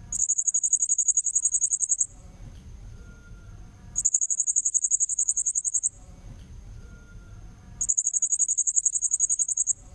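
Blue-crowned hanging parrot (serindit) lure-call recording: three bouts of fast, high-pitched pulsed chirping, each about two seconds long and evenly spaced, with a faint low rumble between bouts.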